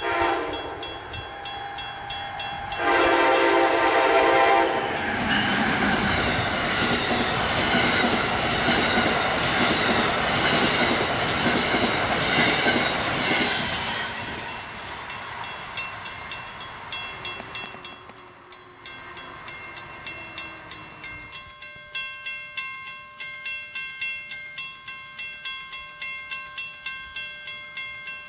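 Train horn blowing a loud blast about three seconds in, followed by the noise of the train running past, which fades away. Near the end, a steady ringing with evenly spaced strikes.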